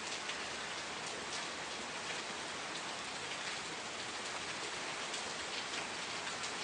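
Steady rain falling, with many fine drops pattering on surfaces, at an even level.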